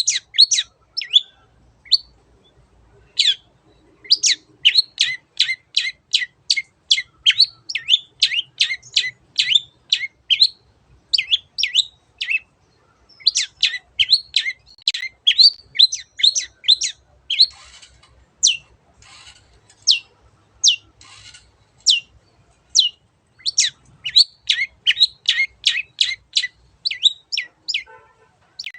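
Long-tailed shrike singing: rapid runs of short, sharply falling notes, several a second, broken by brief pauses, with a few harsher, raspy notes about two-thirds of the way through.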